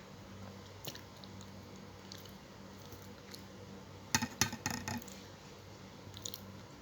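Close-miked chewing and biting of a fried tilapia and spinach meal, with a quick run of loud, crisp clicks about four seconds in, over a steady low hum.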